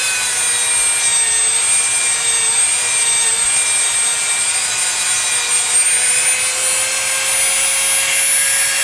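Dremel rotary tool running at high speed, its bit grinding old paint off a composition doll arm. A steady whine that sags slightly in pitch now and then as it bears on the work.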